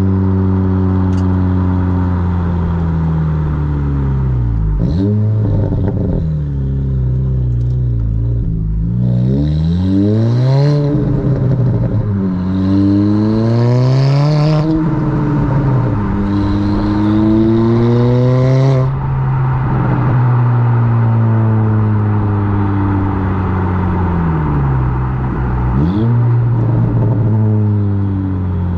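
Exhaust of a 2022 Honda Civic Si's turbocharged 1.5-litre four-cylinder with a 27WON downpipe and the factory exhaust, heard from the back of the car while driving. The engine note climbs in pitch under acceleration and drops at each gear change, with three strong pulls through the middle and easier cruising near the start and end.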